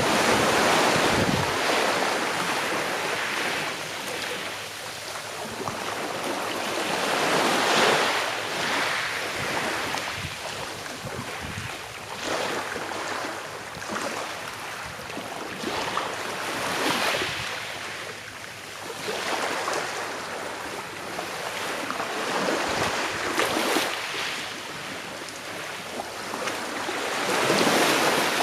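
Sea waves washing onto a shore, swelling and ebbing every few seconds in a continuous wash of surf.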